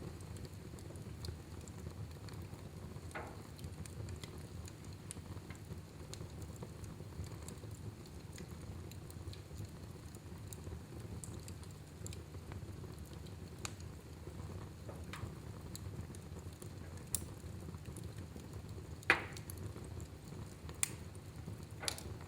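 Fire burning in a fireplace: a steady low rumble with scattered crackles and small pops, and a sharper pop about 19 seconds in.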